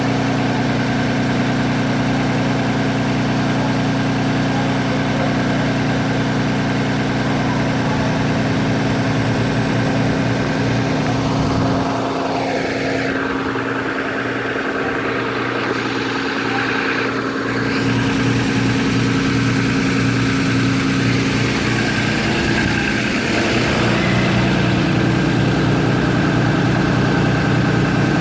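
A vehicle engine running steadily with a low hum that briefly thins out partway through and then settles back.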